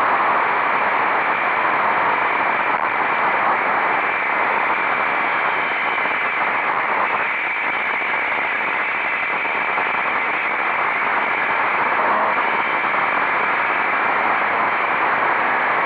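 Steady rush of wind on the microphone of a motorcycle riding at speed, with the bike's engine running underneath.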